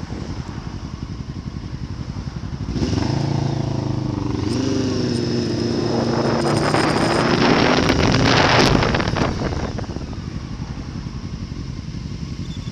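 A motorcycle riding past: its engine note builds from about three seconds in, is loudest near the eight-second mark, then fades away, over a steady low rumble.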